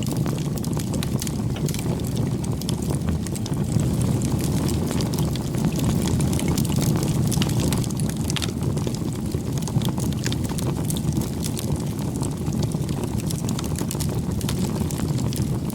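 Campfire burning: a steady low rush of flames with frequent small, sharp crackles and pops from the burning wood.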